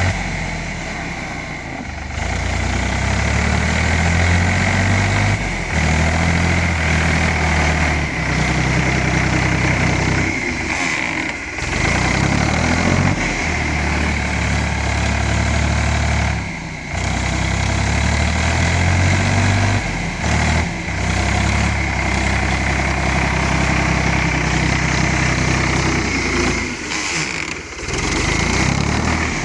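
Ford 3600 tractor's three-cylinder engine running steadily while working clay, with a few brief dips in level.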